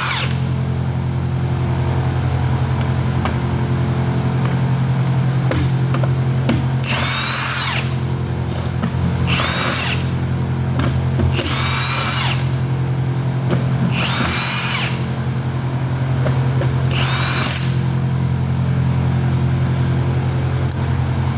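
Power tool running in five short bursts of about a second each, its pitch rising and falling within each burst, backing out the bolts that hold the tops on 2-inch plug valves. A steady low hum runs underneath throughout.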